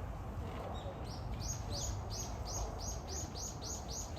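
A bird calling: a fast run of short, high chirps, each sliding down in pitch, about three or four a second, starting about a second in. A steady low background rumble runs underneath.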